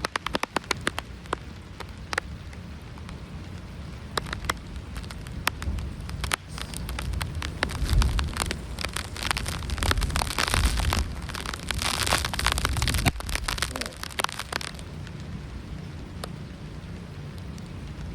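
Rain falling, with many drops striking close by as sharp ticks over a steady hiss. The hiss swells heavier through the middle, then eases near the end.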